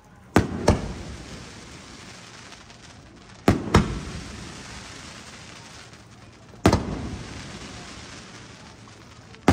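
Aerial firework shells bursting: four sharp bangs about three seconds apart, the first two doubled, each followed by a long echo that fades away.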